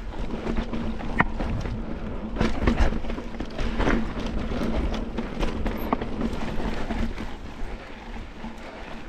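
Mountain bike rolling over slickrock: tyre rumble and wind on the camera microphone, with scattered knocks and rattles from the bike. The rumble eases a little near the end.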